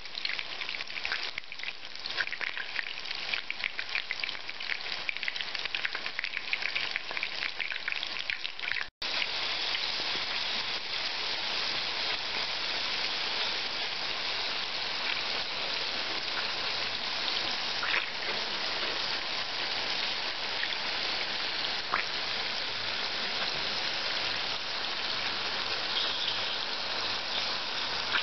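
Chicken-mince cutlets shallow-frying in vegetable oil in a frying pan: a continuous sizzle full of small crackling pops. It cuts out for an instant about nine seconds in, then carries on as a steadier sizzle with an occasional sharper pop.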